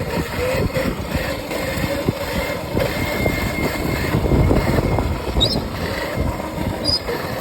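Modded Razor electric dirt bike riding, its electric motor giving a thin wavering whine, over a heavy low rumble of wind on the microphone with scattered knocks from rough ground.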